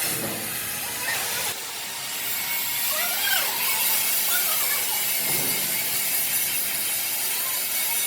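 Steady hissing noise of steel being worked by a power tool, with a few brief squealing glides in pitch about three seconds in.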